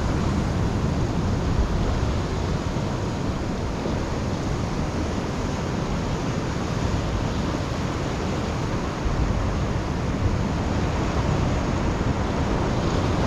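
Steady rushing noise of sea surf on a rocky shore, with wind rumbling on the microphone.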